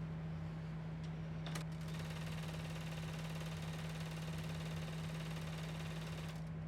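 Bernina 880 sewing machine stitching binding onto a quilt at a steady, rapid stitch rate. It starts about two seconds in, just after a short click, and stops shortly before the end.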